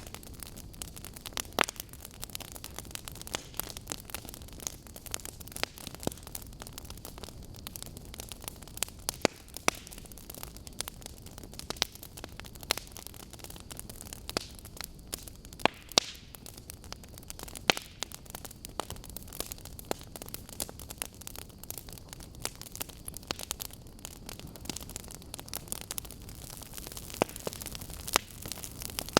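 Wood fire burning: a steady low hiss with irregular sharp crackles and pops from the logs, a few louder snaps scattered through.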